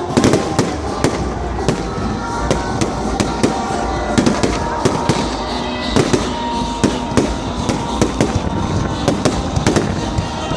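Bonfire crackling, with irregular sharp pops and snaps several times a second. Music plays faintly behind.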